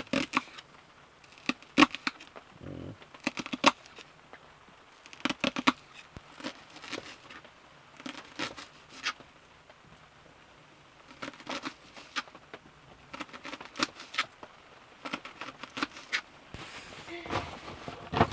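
A kitchen knife chopping on a cutting board: quick runs of sharp taps, several strokes each, with short pauses between runs.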